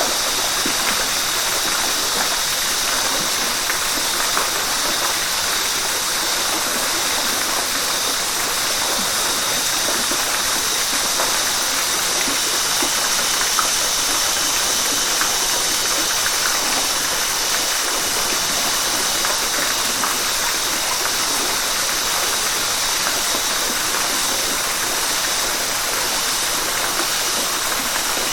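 River water rushing and splashing over rocks, a steady hiss-like flow.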